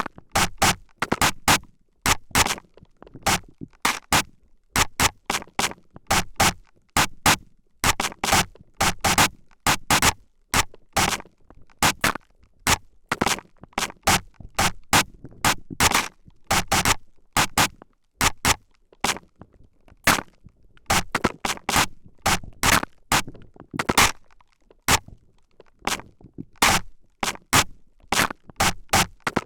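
Sprayer squirting mist in short, sharp bursts straight onto the microphone's left and right ears, about two or three sprays a second in an uneven rhythm.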